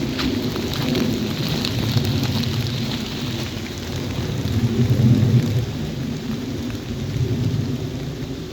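Steady rain falling, drops pattering, over a low rumble that swells about five seconds in and then eases.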